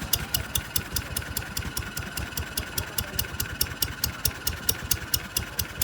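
1965 Wolseley WD 9 3HP single-cylinder stationary engine running at a steady slow idle, each firing stroke a sharp, even beat at about four to five a second.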